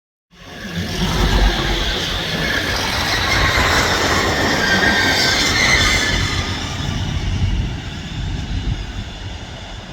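Train passing close by: a loud, dense rushing rumble with faint steady tones above it, cutting in suddenly and dying away over the last few seconds.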